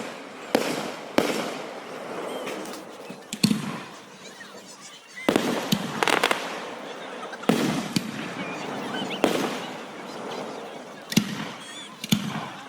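Aerial fireworks bursting overhead: about ten sharp booms at uneven gaps of a second or two, some in quick pairs, each trailing off into a rumbling, crackling tail.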